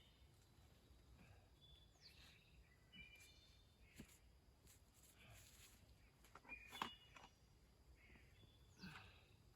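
Faint bird calls in woodland: short chirps and a couple of quick downward-sweeping notes, with a few soft clicks in between.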